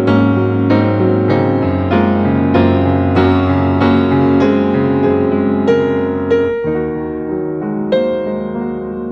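Background piano music: soft, slow keyboard notes over sustained bass tones.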